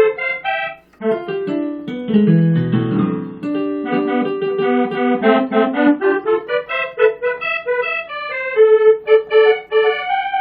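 Korg N364 keyboard playing a split combination of piano and musette accordion voices: low bass notes and chords under a quick, busy melody higher up.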